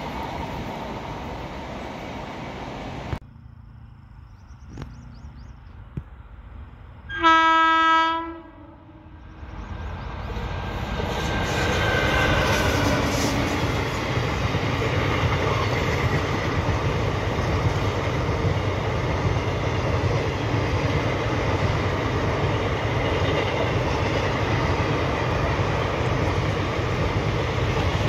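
Indian Railways train running, its rumble cutting off abruptly about three seconds in. After a quiet moment a locomotive horn sounds one loud blast of about a second, and then a train's rumble and wheel clatter build up and run on steadily.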